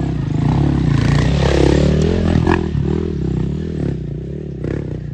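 Motocross motorcycle engine revving up and down several times in a wavering rhythm, loudest in the middle and easing off near the end.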